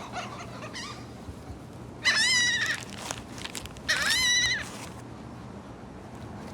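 Seagulls calling: two long, loud calls with a quavering pitch, about two seconds apart.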